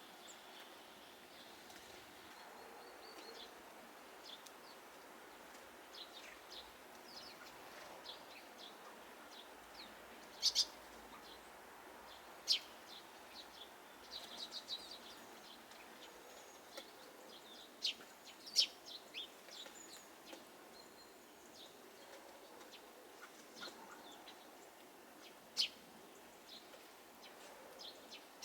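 Small garden birds chirping in winter: scattered short, high calls, with a handful of sharper, louder notes and a quick run of notes about halfway. Underneath is a faint, steady outdoor hiss.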